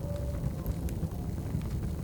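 Wood fire crackling, with scattered sharp pops over a steady low rumble, layered over cafe background noise.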